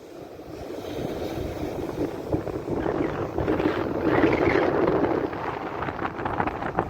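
Strong wind buffeting the microphone, over the rush of sea surf. The noise swells loudest from about three to five seconds in.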